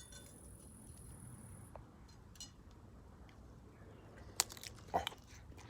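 Quiet eating: a bite taken and chewed, with a few sharp clicks about four and five seconds in.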